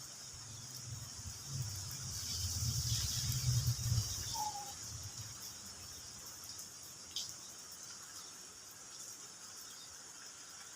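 Steady high chorus of insects such as crickets, with a low wind rumble on the microphone swelling for a few seconds near the start and a short bird chirp about four seconds in.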